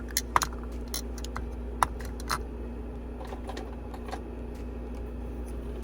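Plastic lip product tubes clicking and tapping as they are handled and set into a plastic makeup organizer. A quick run of light clicks comes in the first two and a half seconds, then only a steady low hum remains.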